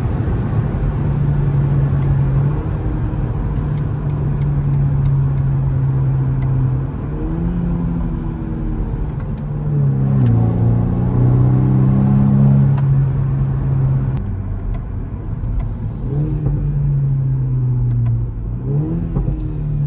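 BMW M135i F40's turbocharged 2.0-litre four-cylinder running through an Akrapovic titanium slip-on exhaust. It holds a steady note, and the pitch rises and drops back with throttle blips several times, about a third of the way in, around the middle and near the end.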